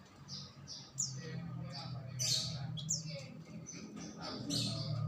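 Small songbirds chirping: a busy run of short, high chirps and quick downward-sweeping calls, over a steady low hum.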